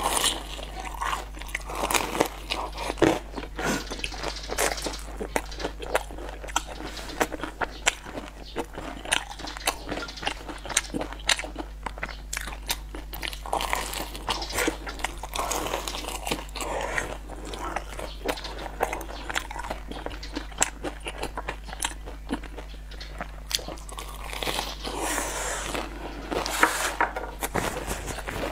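Close-miked crunching bites and chewing of a crisp sesame-crusted pastry, a steady run of sharp crunches.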